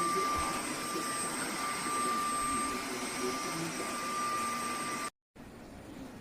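Cordless wet-and-dry vacuum mop running, a steady rushing hum with a thin high whine, cutting off abruptly about five seconds in; only a faint background follows.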